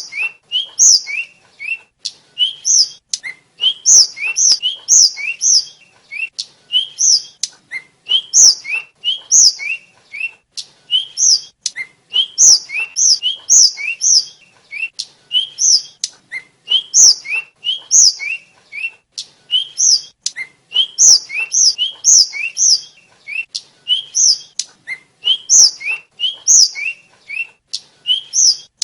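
Tledekan (sulingan), a blue flycatcher, singing a rapid chattering song of short, high chirps. The chirps come in quick runs of two to four with brief gaps, and each pairs a short upward-sliding note with a brighter, higher one.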